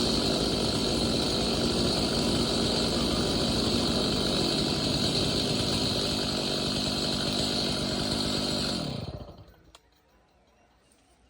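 Two-stroke Stihl chainsaw engine running steadily after a fresh spark plug, then shut off about nine seconds in, the engine speed winding down to a stop.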